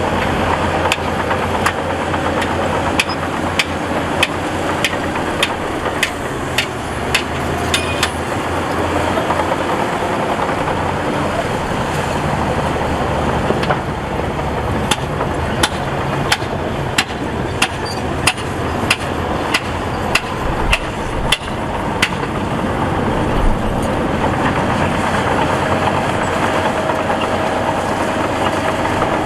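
Heavy earthmoving machine's diesel engine running steadily, with two spells of repeated sharp clicks and clanks, one near the start and another midway through.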